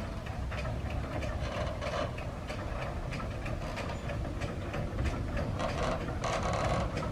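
A rail vehicle running: a steady low rumble with many irregular clicks and knocks from wheels and running gear.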